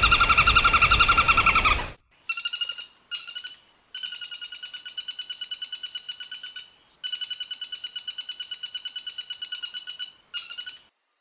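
Woodpecker calls: rapid trills of evenly repeated notes at one steady pitch, about eight notes a second, in bouts of varying length with short gaps between them. A louder, harsher trill runs until about two seconds in.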